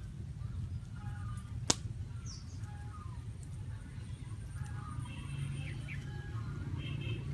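A bird calls over and over, a short phrase of falling notes repeated every second or less, over a low steady rumble and a faint high whine. About a quarter of the way in there is one sharp snap, the loudest sound.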